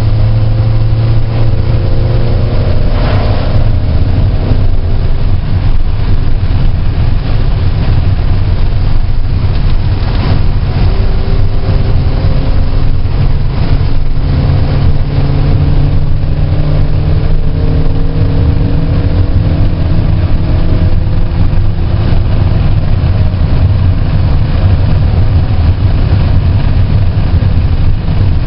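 Car engine driven hard on a wet race track: a heavy, steady low rumble, with the engine note climbing under acceleration and dropping back at each shift, several times over.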